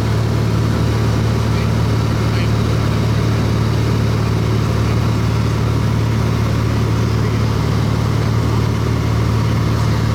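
Light aircraft's piston engine and propeller droning steadily in cruise, heard from inside the cabin, with a strong low hum and an even, unchanging level.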